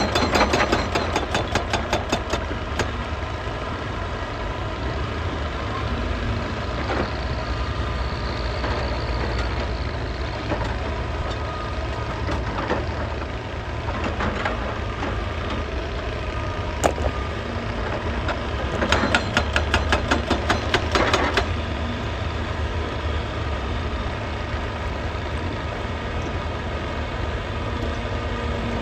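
Hydraulic excavator's diesel engine running steadily, with two bouts of rapid, even hammering, about seven blows a second, at the start and again about two-thirds of the way through, from a hydraulic breaker striking rock. A few single knocks fall in between.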